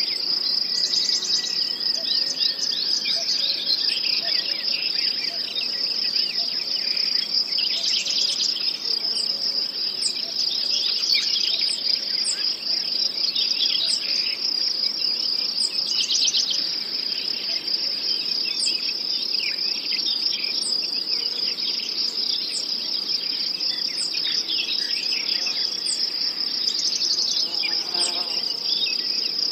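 Nature-sounds recording of a steady, high-pitched insect chorus of trilling crickets, with short bird chirps scattered over it throughout.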